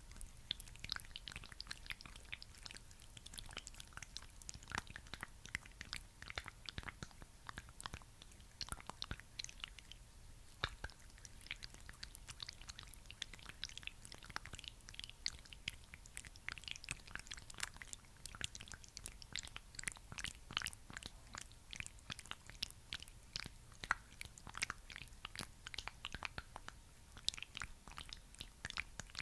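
Thick, sticky skin-care product being worked close to the microphone: a dense, continuous stream of wet, sticky crackles and clicks.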